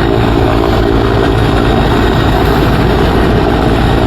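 Helicopter running close by, a steady chop of rotor blades over the drone of its engine.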